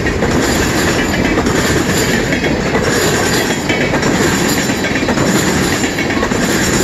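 Freight train cars rolling past: a loud, steady rumble and rattle of steel wheels on the rails, with clacking over the rail joints.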